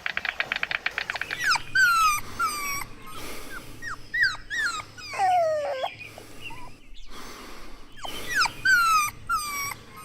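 Puppies whimpering and whining: repeated high, short falling calls, with a longer whine about midway that drops and then rises again. For the first second and a half a fast pulsing sound runs underneath.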